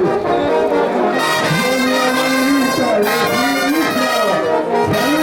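Bolivian brass band playing ch'uta dance music: a loud, steady brass melody with trumpets and trombones.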